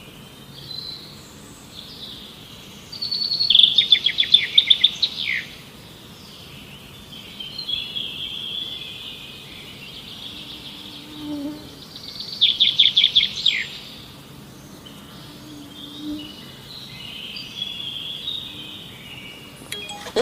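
Birds singing and chirping, with two loud, rapid trilled phrases, one about four seconds in and another about thirteen seconds in, over steady background chirping.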